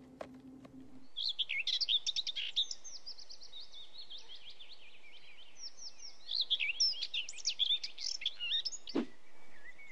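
Birds chirping and singing in a dense chorus of quick high chirps and trills, starting about a second in.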